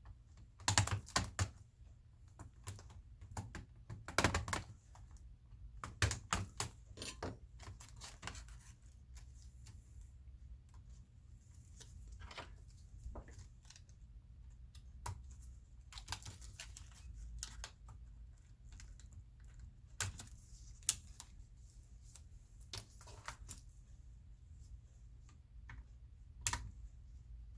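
Irregular clusters of small clicks and taps from Dell Inspiron 15-5559 laptop parts and tools being handled during disassembly, over a steady low hum.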